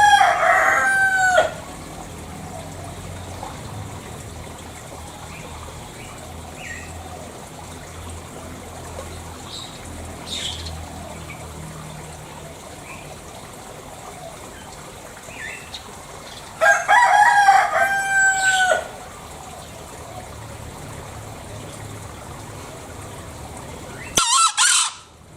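Green junglefowl (Gallus varius) rooster crowing: a short crow with a steady high note at the start, another about 17 seconds in, and a brief higher call near the end that cuts off suddenly. Faint short calls can be heard in between.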